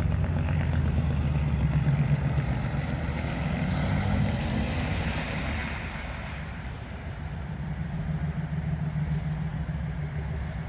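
A GMC Denali pickup's engine running as it pulls away, loudest in the first few seconds and then dropping off. A vehicle engine swells again near the end.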